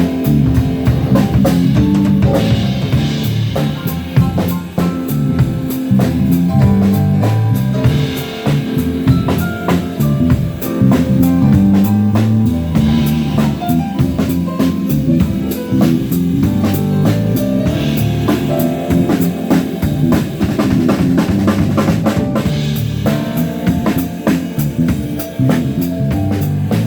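A live band playing, with a drum kit's kick and snare keeping a steady beat under moving bass notes and other instruments.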